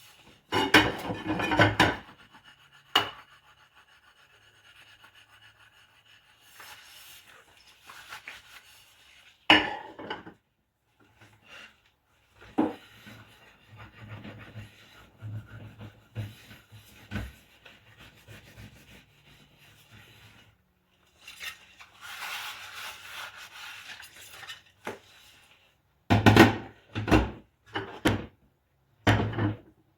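Dishes being washed by hand with rubber-gloved hands: scrubbing and rubbing, with scattered knocks of dishes against each other and a quick run of clatters near the end.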